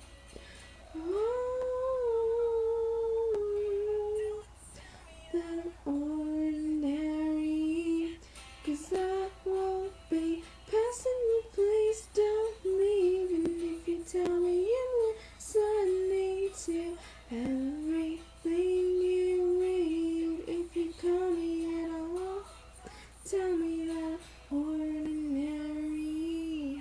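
A female voice singing a melody in short phrases, with pauses between them and no other instrument clearly heard.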